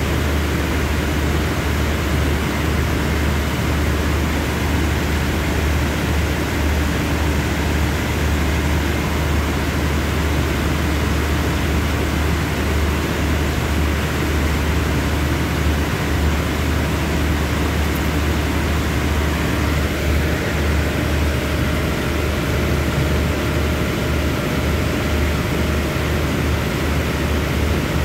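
Steady low rumble with a hiss over it from a stationary air-conditioned passenger train, its engines and air-conditioning running at idle.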